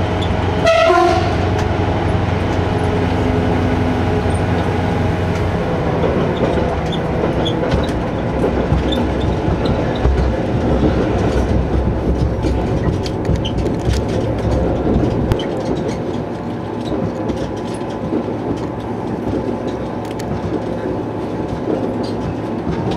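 A diesel railcar running along the track, heard from on board: a steady engine drone with wheel and rail noise and scattered knocks. The lowest rumble eases about fifteen seconds in.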